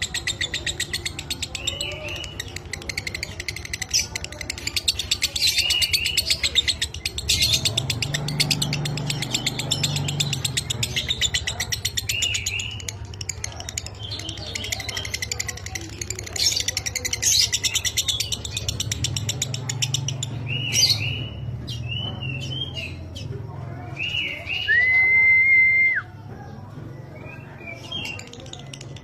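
Lovebird chattering in long, very rapid trills, the 'ngekek' song, broken by short curling chirps. Near the end comes a single loud held whistle about a second long. A low steady hum runs underneath from about a quarter of the way in.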